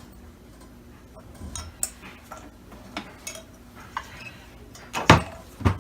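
Hard plastic vacuum-cleaner parts being handled and set down: scattered light clicks and knocks, with two louder knocks near the end.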